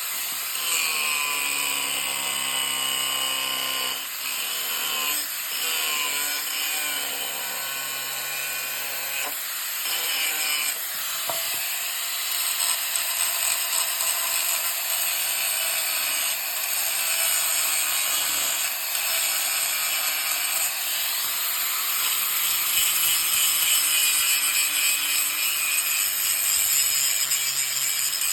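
A power tool running in long spells, its pitch shifting as the load changes.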